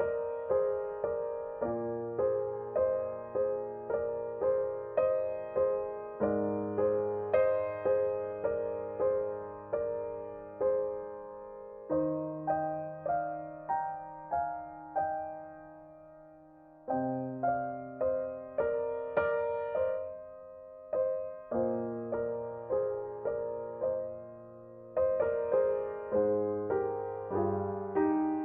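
Background piano music: a slow, gentle melody of single decaying notes at about two a second, with two short pauses where the notes fade out.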